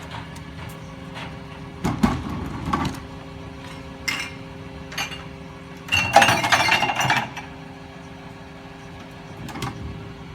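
Recycling truck running with a steady hum while recyclables, clinking glass bottles among them, knock and clatter into its hopper. The clatter is loudest for about a second, from six seconds in.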